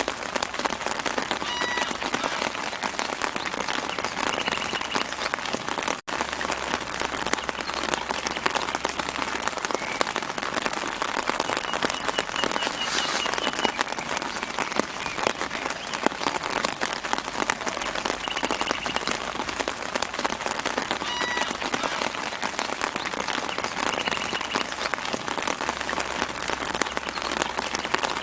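Steady light rain pattering on leaves, a dense hiss of fine drops, with short, high bird chirps now and then.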